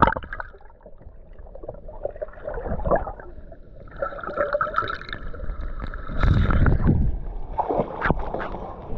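Water gurgling and sloshing around a camera held in shallow seawater, muffled as if partly underwater. A louder rush of water comes about six seconds in, and sharp splashes follow near the end.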